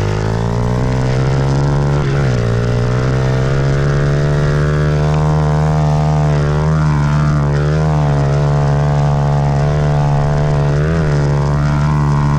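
Dirt bike ridden at a steady pace, its motor holding a steady high drone with brief dips in pitch about two seconds in and near the end.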